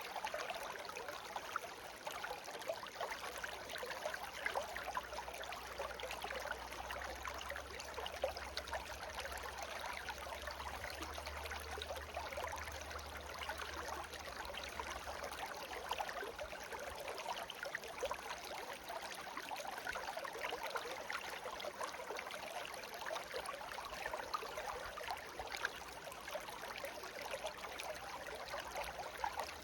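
Shallow stream babbling steadily over stones: an even rush of flowing water with fine splashes and trickles.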